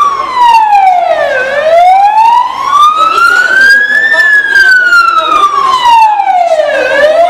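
Emergency vehicle siren on slow wail. Its pitch falls to a low point about a second and a half in, climbs for nearly three seconds, then falls again and starts rising near the end.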